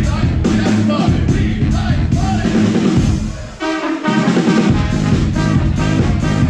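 Band music with drum kit and singing; a little past halfway it drops out briefly, then comes back with horns playing sustained chords over the drums.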